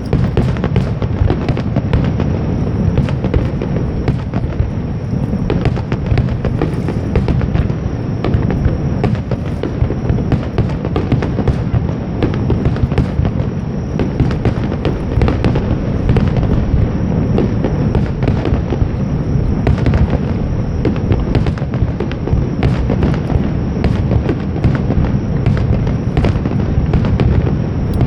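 Aerial fireworks going off in a dense, continuous barrage, many shell bursts and crackles overlapping with no pause.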